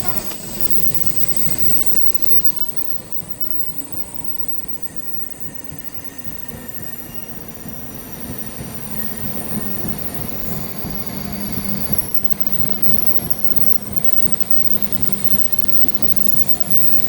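Shinkansen train running along the platform, its wheels squealing in thin high tones over a steady rumble that swells again in the second half.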